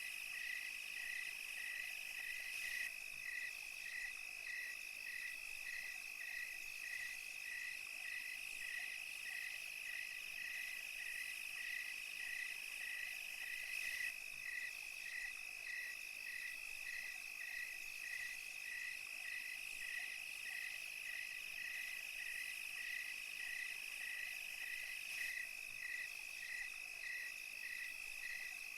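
Night-time chorus of crickets and other insects: a steady high trill, with a cricket chirping in a regular pulse about twice a second over it.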